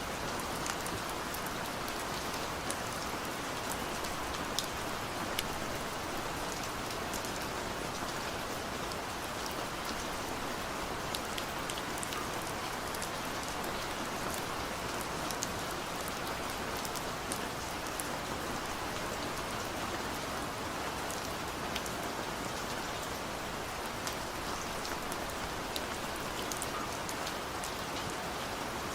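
Steady, continuous rainfall, with many individual drops pattering on a surface.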